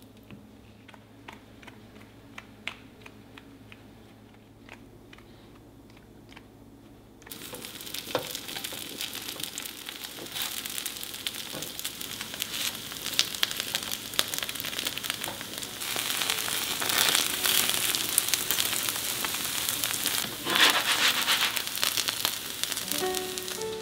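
A few faint clicks of handling, then about seven seconds in, hot oil in a pan bursts into loud sizzling and crackling as tofu goes in to pan-fry, and the frying grows louder.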